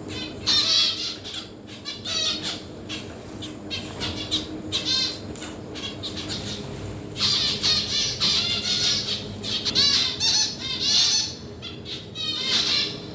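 A group of birds chattering and squawking in repeated bursts of overlapping calls, over a steady low hum.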